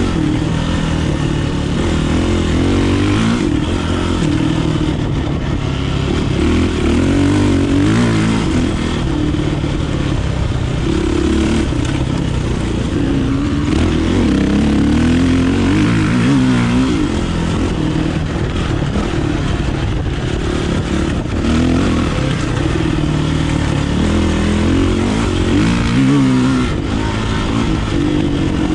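Kawasaki KLX450R dirt bike's single-cylinder four-stroke engine being ridden, its revs rising and falling continuously as the throttle is worked.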